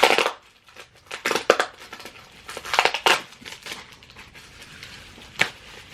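Packing tape being ripped and parcel packaging crinkled as a taped-up shipping package is opened by hand, in three or four noisy tearing spells, with a sharp click near the end.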